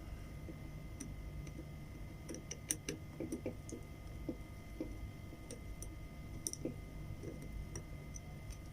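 Small irregular metal clicks and ticks of a small screwdriver turning out a tiny screw in a Shimano Sahara spinning reel's handle knob, with a cluster of clicks a few seconds in, over a steady low hum.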